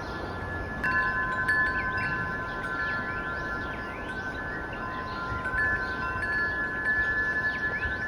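Wind chimes ringing in long, overlapping tones, freshly struck about a second in and again around the middle, with short bird-like chirps above them over a soft steady hiss.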